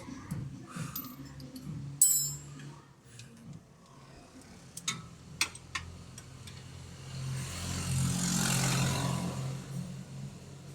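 Metal tools clinking and knocking on car parts: one sharp ringing clink about two seconds in, then a few short knocks, over a steady low hum, with a hiss that swells and fades near the end.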